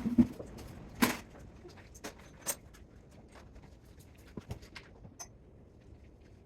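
Irregular clicks and knocks of tools and parts being handled while a spot welder is taken apart: a heavy thump at the start, a sharp clack about a second in and another a second and a half later, then lighter scattered ticks.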